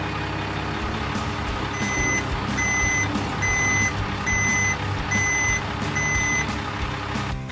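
Truck reversing alarm beeping six times, about one beep a second, over the steady low running of the truck's engine.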